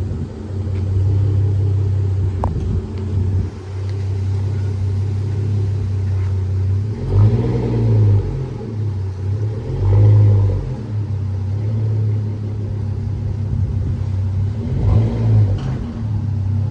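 A car engine running with a steady low drone, revved briefly three times, the middle rev the loudest.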